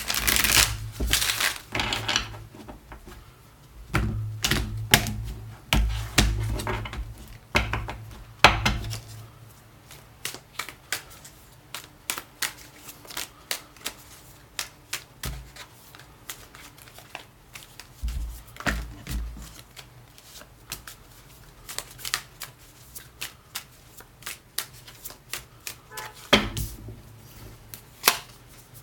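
Deck of tarot cards being shuffled by hand: a long run of quick papery snaps and clicks, busier and louder for the first nine seconds or so, then sparser.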